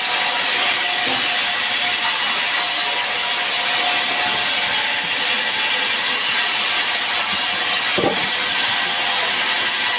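Sawmill saw cutting through sengon wood: a steady, high-pitched cutting noise, with a short knock about eight seconds in.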